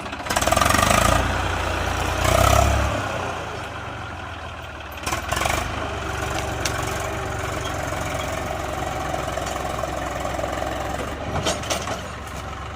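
Eicher 480 tractor's diesel engine revving up twice in the first three seconds, then running steadily at a lower speed, with a few short knocks.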